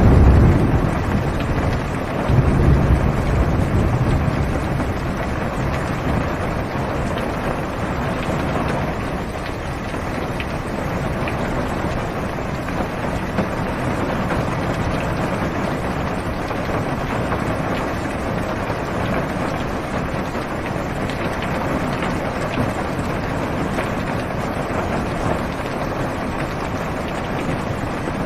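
Heavy rain falling steadily on a car's roof and windows, heard from inside the car. Low rolls of thunder rumble under it at the very start and again about two to four seconds in.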